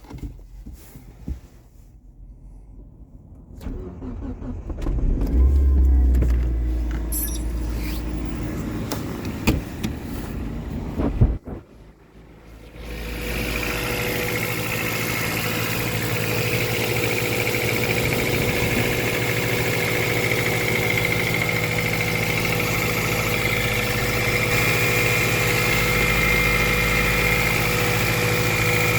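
A few clicks and handling thumps with a low rumble, then about thirteen seconds in the Mazda ZJ-VE 1.3-litre four-cylinder starts from cold and settles into a steady idle. The engine knocks when cold, which the owner suspects is the timing chain.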